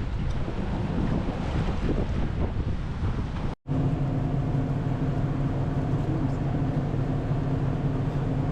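Wind rushing on the microphone with water and motor noise from a boat on the water. After a sudden cut about three and a half seconds in, a steady engine hum takes over.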